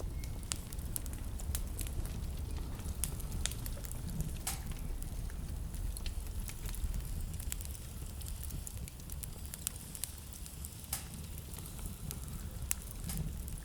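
Wood fire in a fireplace crackling, with irregular sharp pops scattered over a steady low rumble.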